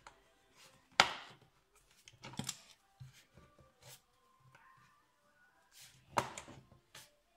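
A run of sharp clicks and knocks from tools or parts being handled, with two louder impacts, one about a second in and one near the end.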